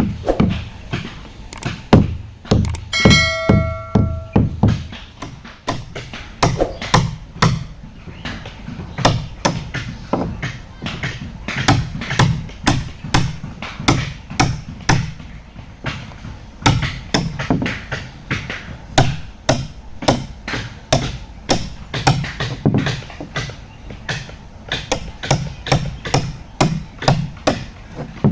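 Repeated hammer blows on wood, irregular at about one to two strikes a second, as planks are worked on a wooden fishing boat. A short ringing tone sounds about three seconds in.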